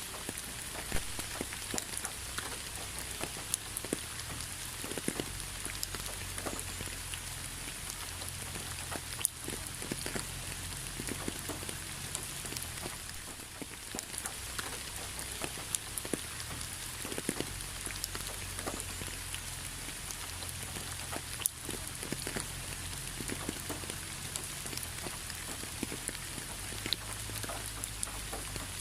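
Steady rain, a continuous hiss with many separate drops tapping irregularly throughout, over a low rumble.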